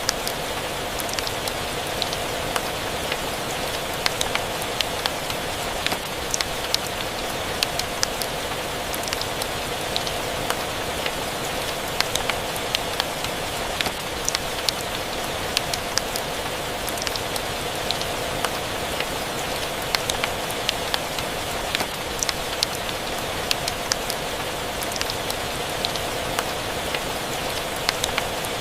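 Rain and fireplace ambience: a steady hiss of rain with frequent small, sharp crackles and ticks scattered throughout.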